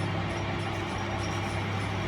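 A workshop machine running steadily, with a low hum and a steady drone.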